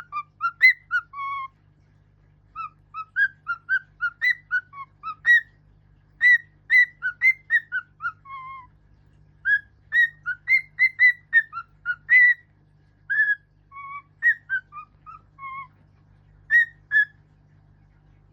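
Pet songbird whistling a melody in phrases of short, clear notes that step up and down, with brief pauses between phrases.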